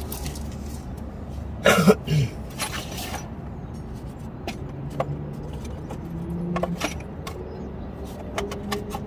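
Clinks and rattles of metal hand tools being handled while a tie-rod nut is fitted, with louder clatters about two and three seconds in. A steady low hum runs underneath.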